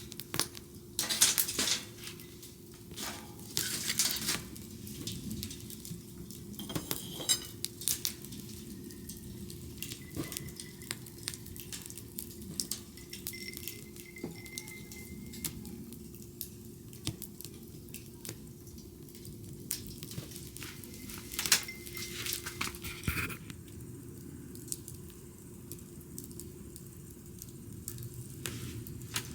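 Wood bonfire crackling, with irregular sharp pops and snaps over a low hiss. Louder clusters of pops come in the first few seconds and again about two-thirds of the way through.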